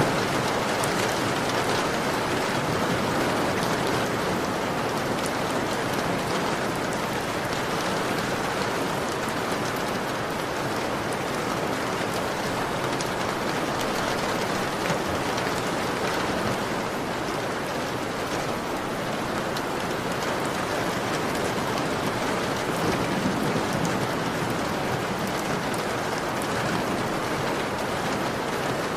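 Heavy rain beating steadily on a window pane: a continuous even hiss dotted with the fine ticks of individual drops.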